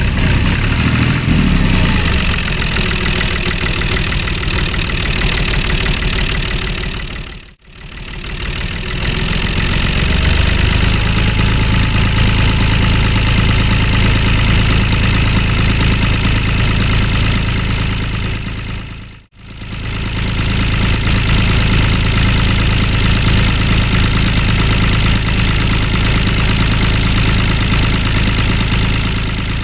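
Tractor engine sound running steadily at idle, as for a mini Massey Ferguson 385 tractor. It drops out briefly twice, as if at cuts.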